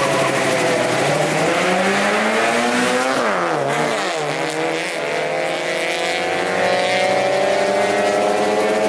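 Drag-race car accelerating hard at full throttle. Engine pitch climbs, drops at a gear change about three and a half seconds in, then climbs again.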